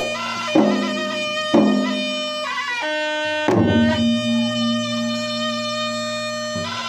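Traditional Makassar-Bugis gendang wedding music: a reed pipe holding steady, shrill notes over two-headed gendang drums, with a few sharp drum strokes in the first half.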